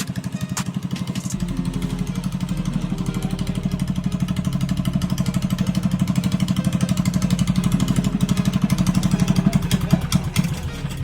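Minibike's single-cylinder 212 engine with an open header, freshly started on choke and running at a steady idle. A fast, even putter that grows slightly louder over the seconds.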